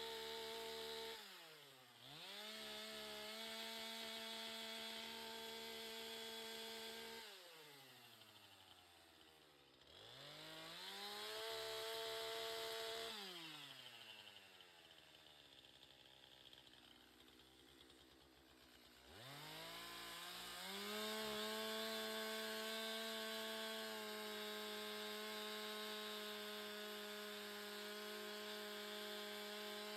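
Two-stroke chainsaw running at high revs, its engine note falling away and then revving back up several times: near the start, around a quarter of the way in, and a longer drop toward idle in the middle before it revs up again and holds high to the end.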